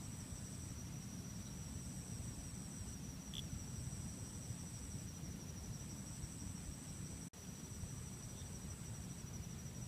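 Forest insects, crickets, trilling steadily at two high pitches: one a fast-pulsing trill, the other a higher trill that breaks off and resumes every second or two, over a low steady rumble of background noise. The whole sound drops out for an instant about seven seconds in.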